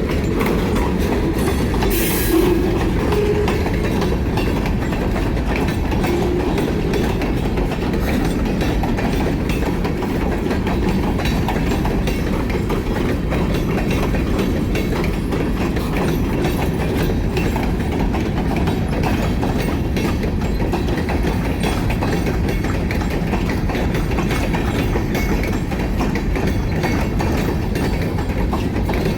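Freight cars rolling past at speed, their wheels clacking steadily over the rail joints, with a brief sharp high-pitched sound about two seconds in.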